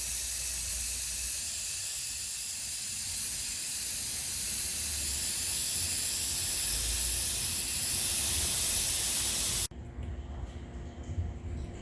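A steady hiss of pressurised spray that cuts off suddenly about ten seconds in, followed by quieter clatter.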